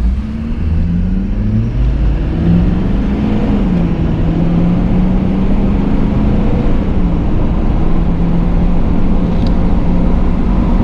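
Pickup truck engine accelerating through a gear change, then running steadily at cruising speed, heard from inside the cab.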